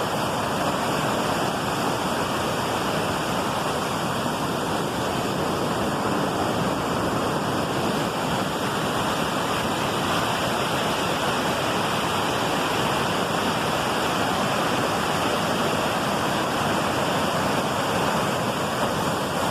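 Waterfall pouring over rock, a steady, loud rush of falling water.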